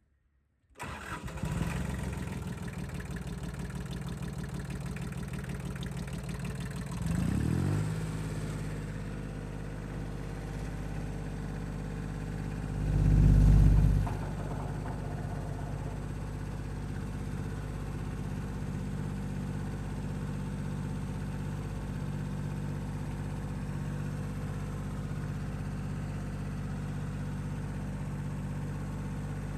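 Kubota L2202 DT compact tractor's diesel engine starting about a second in and settling into a steady idle. It revs briefly about a quarter of the way through, with a louder surge about halfway.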